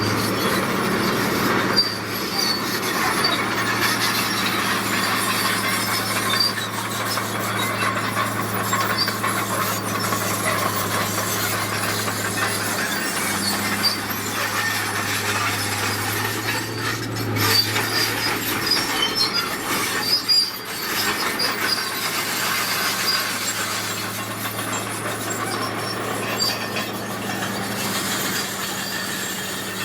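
Crawler bulldozer working: its diesel engine runs at a steady pitch while the steel tracks clank and squeal, with high squeaks scattered through and a few louder knocks around the middle.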